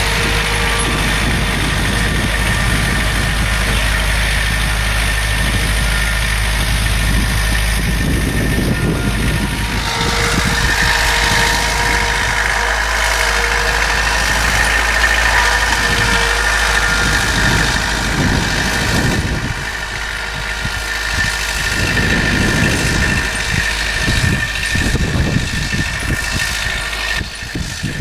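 Bobcat skid-steer loader's engine running steadily, with a steady high whine that comes up about a third of the way in.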